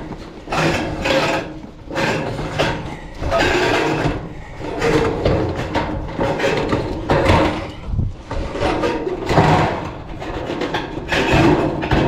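Sheet-metal ridge cap being slid and dragged over the steel roof panels, rubbing and scraping in irregular bursts as it is worked into place.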